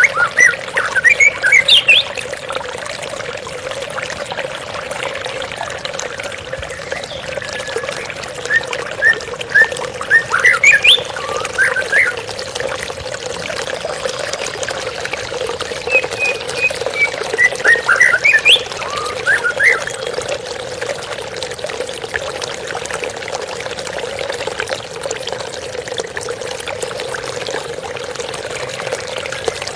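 Water flowing and trickling steadily, with three bursts of quick, high bird chirps: near the start, about ten seconds in, and again about seventeen seconds in.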